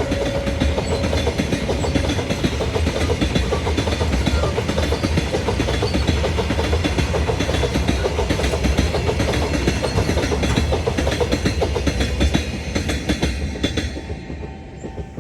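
Train rolling past at close range, its wheels clattering rapidly over the rail joints, then fading away over the last couple of seconds.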